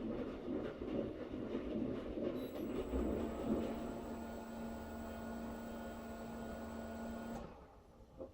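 Schulthess washing machine running: a churning rumble at first, then from about two and a half seconds a steady hum with a faint high whine, which stops about a second before the end.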